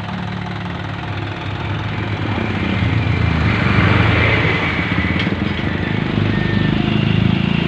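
Diesel engine of an Isuzu Giga dump truck running steadily, growing louder from about a second and a half in.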